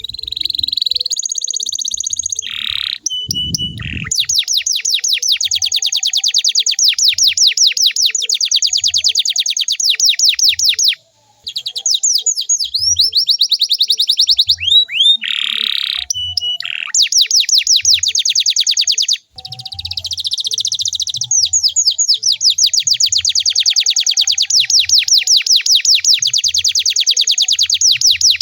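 Domestic canary singing: long rolling trills of rapid repeated downward-sliding notes, strung into several phrases with brief gaps. This is the kind of song played to other canaries to prompt them to sing.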